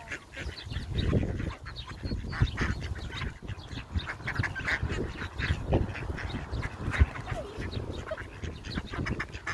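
A flock of ducks calling in many short, rapid quacks, crowding in to be fed, over a low rumble.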